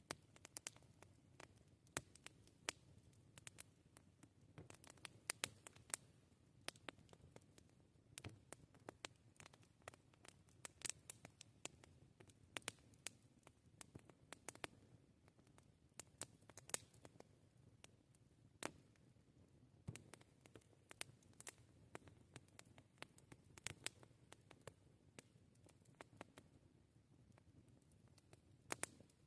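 Campfire crackling: irregular sharp pops and snaps of burning wood, several a second, a few louder snaps among them, over a faint low steady rush.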